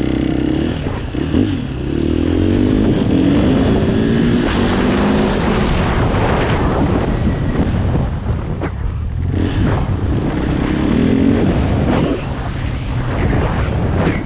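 KTM 500 EXC's single-cylinder four-stroke engine pulling away and accelerating. Its pitch rises in several short steps as it shifts up through the gears, about two to five seconds in, then eases off and climbs again near the end.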